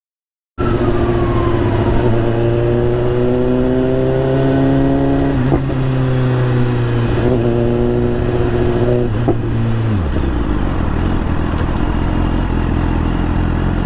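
Motorcycle engine running at steady revs under wind noise, then the revs drop sharply to a low idle about ten seconds in as the bike slows.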